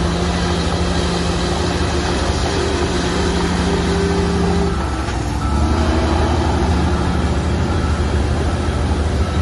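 Large Shantui crawler bulldozer's diesel engine running hard under load. About halfway through the engine note shifts: a brief dip, then a deeper, louder drone.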